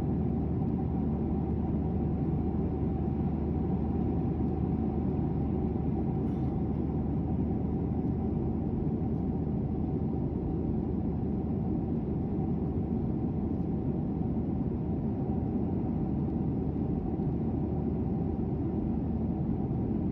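Steady cabin noise inside an airliner: an even, low rumble of engines and rushing air with a faint steady hum over it.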